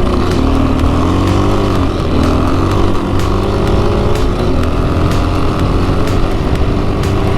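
A motorcycle engine running under way, its pitch dipping and then rising again about two seconds in as the throttle changes.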